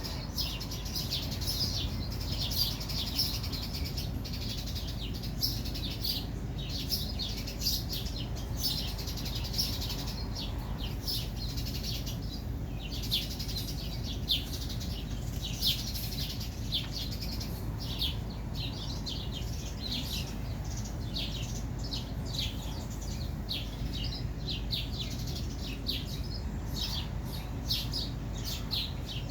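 Bird chirping: rapid short high chirps, several a second, keeping on without a break, over a low steady rumble.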